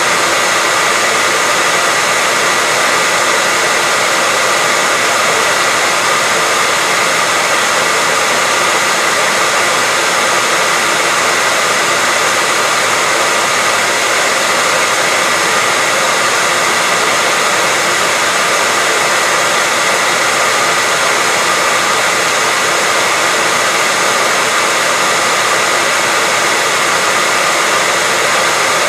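Hair dryer running steadily: a constant rush of blown air with a faint high whine held on one pitch.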